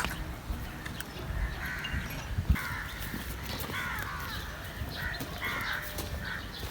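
A bird giving a string of short, harsh calls, about one every second. There is a single knock partway through.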